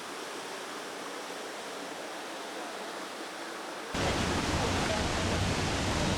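Steady rush of falling water from a waterfall, an even hiss without pauses. About four seconds in it jumps abruptly louder and deeper.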